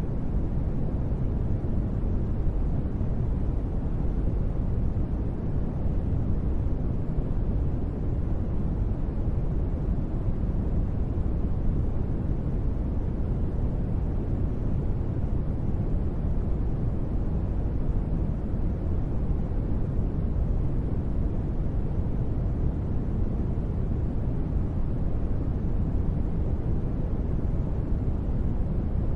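Steady ambient noise track: an even, deep rumbling hiss with most of its weight in the bass and little treble, unchanging throughout.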